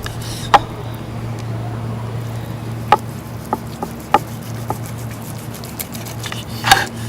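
A knife slicing a block of roast beef, tapping sharply against the cutting board about eight times at irregular intervals, over a steady low hum.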